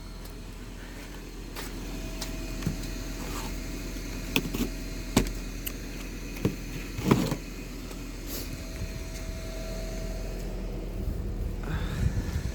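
Steady vehicle hum with a faint steady tone, broken by scattered short clicks and knocks, the loudest a little past seven seconds in.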